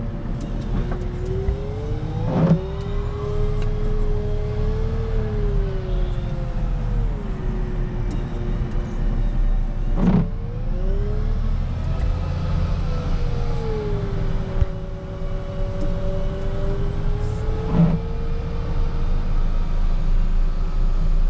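Wheel loader's diesel engine running under load as it pushes snow, its pitch rising and falling slowly as it revs up and eases off. Three sharp knocks come several seconds apart.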